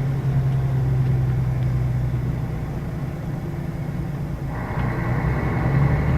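Scania K113 bus's 11-litre straight-six diesel running steadily at a low, even note. About four and a half seconds in it grows fuller as the engine takes more load.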